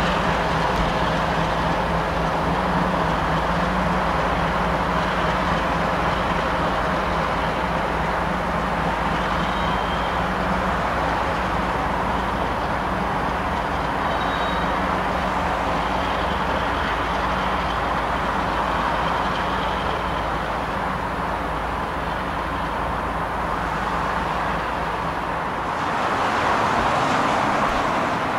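Diesel freight locomotives in a loaded coal train passing, their engines running steadily under the rumble of wheels rolling over the rails. About two seconds before the end the sound changes to road traffic noise from cars on a highway.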